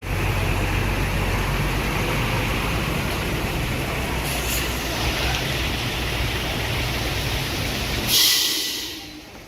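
Steady low rumble of an idling vehicle engine. About eight seconds in, a loud hiss lasting about a second, after which the rumble falls away.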